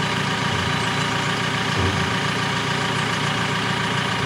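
JCB telehandler's diesel engine idling steadily, with a short low knock about two seconds in.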